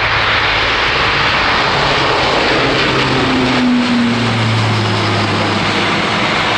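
Airbus A400M's four turboprop engines at full takeoff power, a loud steady roar of engines and propellers; low tones in it drop slightly in pitch about halfway through.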